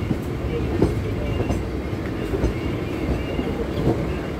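Electric multiple unit (EMU) suburban train running, heard from its open doorway: a steady rumble with irregular clacks as the wheels pass over rail joints, and a faint high wheel squeal.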